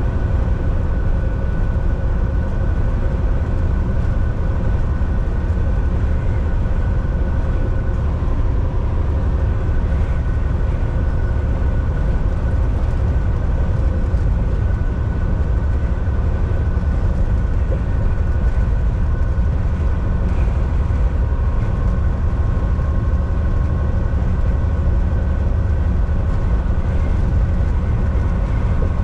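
Volvo VNL 760 semi truck cruising at steady highway speed, heard from inside the cab: a deep, even engine and road drone with a faint steady whine over it.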